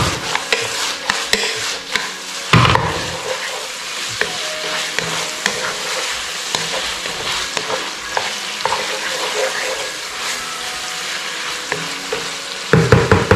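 Sliced pork stomach, kidney and beef liver sizzling in oyster sauce in a large frying pan while a wooden spatula stirs and scrapes through it, with many small clicks of the spatula against the pan. A louder knock comes a few seconds in, and near the end the stirring turns into a quick run of louder, rhythmic strokes, about three a second.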